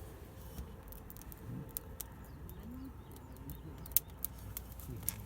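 A dove cooing in low, rising-and-falling calls, with scattered sharp clicks, the loudest about four seconds in.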